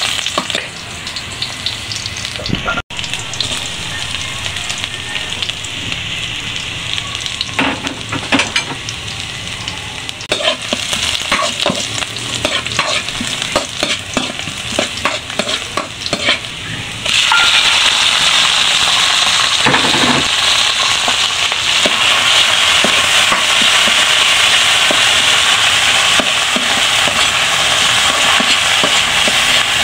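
Chopped onion and garlic sizzling in hot oil in a non-stick skillet, stirred with a spatula that scrapes and taps the pan. A little past halfway the sizzle suddenly grows louder and denser and stays so, as the drained corned tuna goes into the oil to fry.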